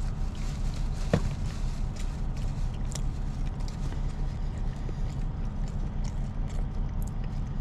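Steady low rumble of an idling semi-truck heard from inside the cab, with one sharp click about a second in.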